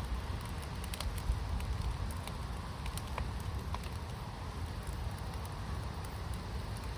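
Fire pit burning: scattered crackles and pops over a steady low rumble.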